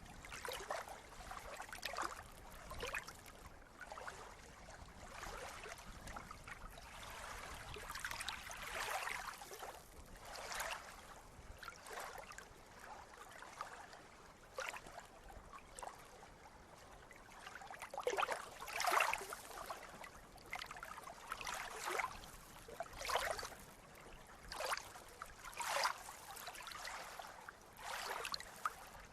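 Sea water lapping and splashing in small waves: a steady wash of water broken by irregular splashes every second or two, several of them louder a little past halfway.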